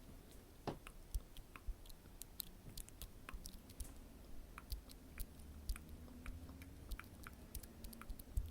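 Close-miked ASMR mouth sounds: an irregular run of small wet clicks and smacks, several a second.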